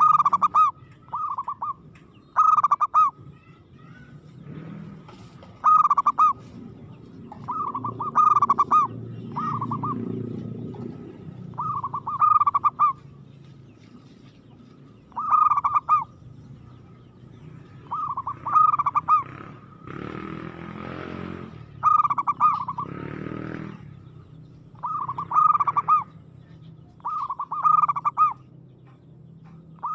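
Zebra dove (perkutut) cooing: short, rapid, trilling coo phrases repeated every second or two in a steady series. A brief rustling noise comes about two-thirds of the way through.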